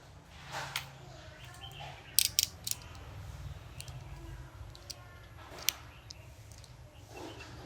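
Small handling sounds of tools and parts: three sharp clicks close together about two seconds in and another single click near six seconds, over a low steady hum.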